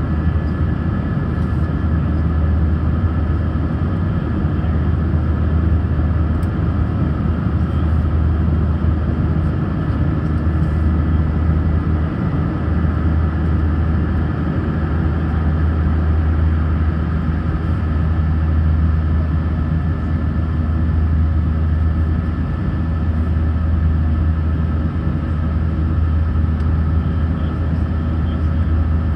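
Airbus A319 cabin noise: the steady drone of the jet engines and rushing air, with a strong low rumble and a few faint steady tones above it.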